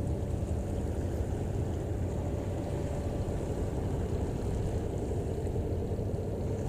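Steady low engine rumble of a passing ship, with a faint steady hum over it.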